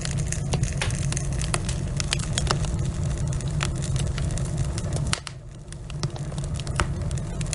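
Wood fire burning in a fireplace: a steady low rumble of flames with frequent sharp, irregular crackles and pops from the burning logs. About five seconds in, the low rumble drops away for about a second while the crackling goes on.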